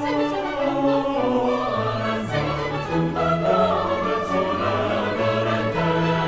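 Classical choir singing with a symphony orchestra, sustained notes moving from chord to chord.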